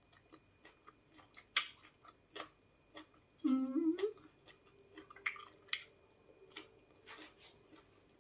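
A person chewing a mouthful of fish cake and cucumber salad, with scattered sharp clicks. About three and a half seconds in comes a short closed-mouth hummed "mmm".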